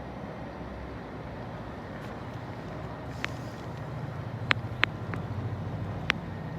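Train running at a station: a low steady rumble that grows louder from about halfway in, with several sharp clicks.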